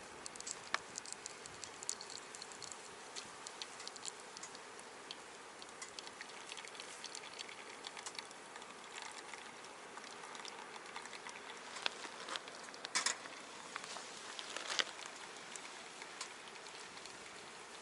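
Wood fire crackling in a box stove: irregular small pops over a steady soft hiss, with a cluster of louder pops in the last third.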